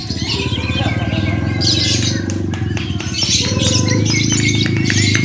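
Lovebirds chattering in shrill, rapid bursts that come and go every second or so, over a steady low hum.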